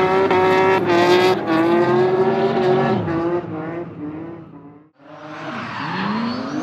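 Chevrolet LSX 454 V8 in a BMW M3 E36 drift car held at high revs during a smoky drift, then fading away over about two seconds. After a brief gap near the end, an engine revs up again with a rising pitch.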